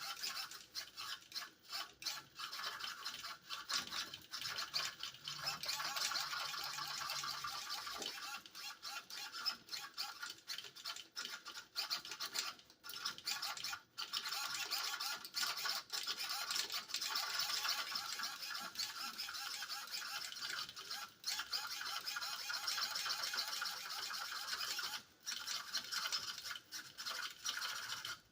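RC steering servo buzzing and whirring almost continuously with a rapid flutter, broken by a few short gaps, including one near the middle and one near the end.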